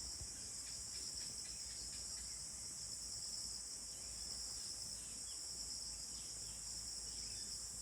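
Crickets trilling in a steady, high-pitched evening chorus that does not let up.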